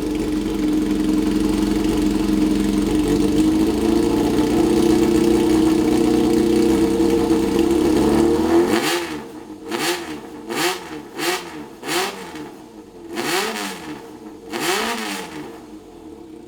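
Kawasaki Zephyr 400's air-cooled inline-four running through a straight-pipe Snake exhaust with no baffle, very loud and high-pitched. It runs steadily, then drops back about nine seconds in and is blipped about six times, each rev rising and falling quickly.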